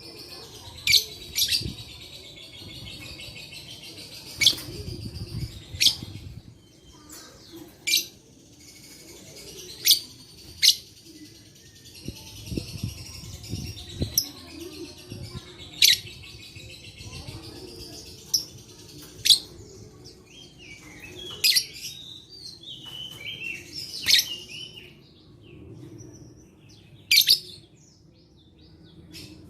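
Lovebirds chattering: a continuous high twittering broken by about a dozen loud, sharp shrieks at irregular intervals.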